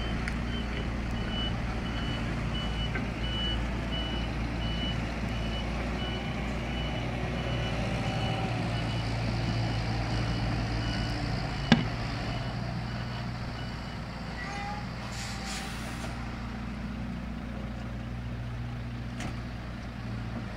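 Scania P114 340's six-cylinder diesel engine running at low speed while the truck reverses, its reversing alarm giving a steady series of high beeps that stop a little over halfway through. A single sharp knock comes just before the beeps stop, and a short hiss of air follows about two seconds later.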